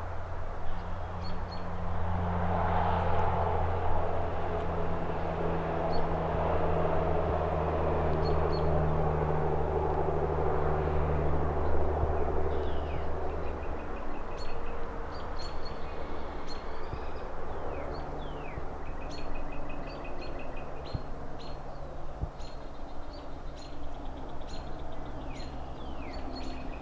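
Outdoor city ambience: a low traffic rumble with a vehicle passing in the first half, then small birds chirping in short repeated high notes, more often toward the end.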